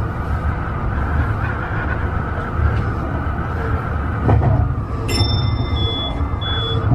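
Tobu 50090 series electric train running at speed, a steady rumble of wheels on rail and running gear heard from on board. About five seconds in, a high-pitched ringing tone sets in and sounds on and off to the end.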